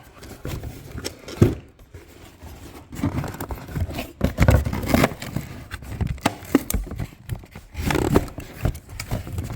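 Handling noise from a small RC car and its LED light wiring: irregular scraping, rustling and clicking of plastic parts as the wires are secured with a tie wrap.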